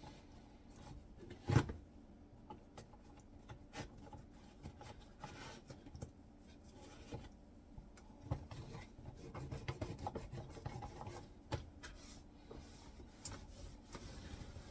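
Hand scrubbing and rubbing on a dishwasher's door and dispenser area while cleaning off deposits, with scattered light clicks and one sharp knock about a second and a half in.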